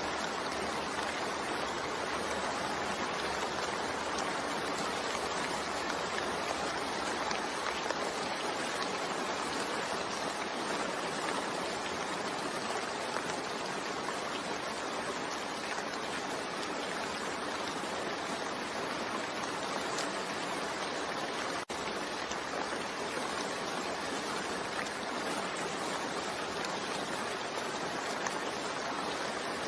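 Steady rain, an even hiss of falling water with no distinct drops standing out, broken by a momentary dropout about two-thirds of the way through.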